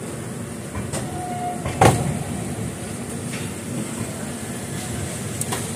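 Passenger train moving off slowly, heard from aboard the coach: a steady low rumble of the running gear with a few sharp clicks, the loudest a knock about two seconds in.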